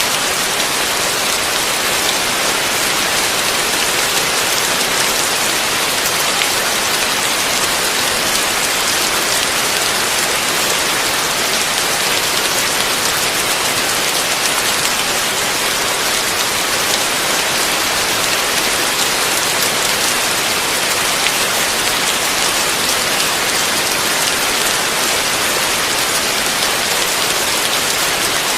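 Heavy rain falling steadily, a dense even hiss of countless drops with no let-up and no thunder.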